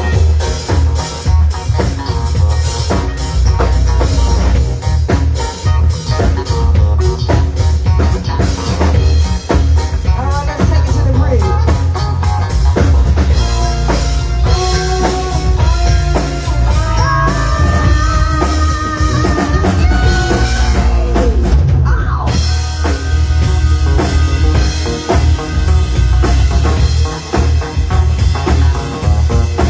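Rock music from a band: a drum kit and heavy bass drive it throughout, and a melodic lead line of held, stepping notes comes in around the middle.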